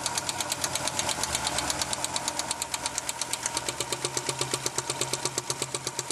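1987 Audi 4000S's KX inline five-cylinder engine running with a loud, rapid, even lifter tick, about eight ticks a second. The owner takes it for a bad, intermittent lifter tick, though the engine has oil.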